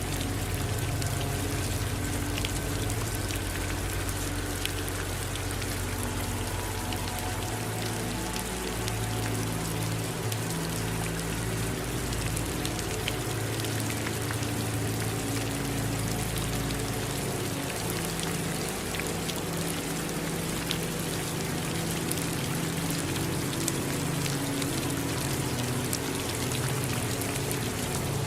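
Steady rain falling, with many individual drops ticking against a surface, and low steady tones beneath it.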